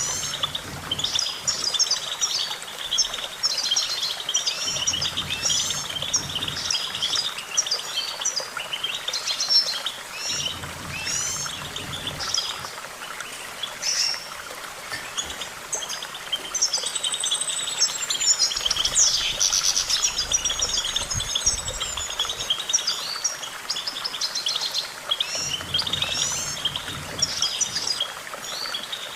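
European goldfinch singing: a continuous, rapid twittering song of trills and quick chirps, with some high whistled slurs.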